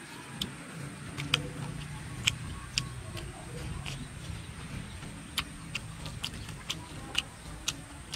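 Wet smacking clicks of a mouth chewing food (roasted mushrooms and tiny fish), a sharp smack roughly every half second.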